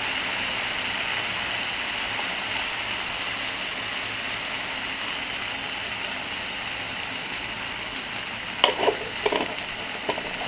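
Onion-and-spice masala sizzling steadily in hot mustard oil in a metal kadai, with a few short knocks near the end.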